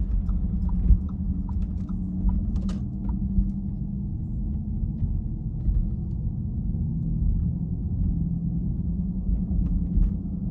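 A car driving, with a steady low rumble of engine and road. A short, light tick repeats about twice a second for the first three seconds, then stops.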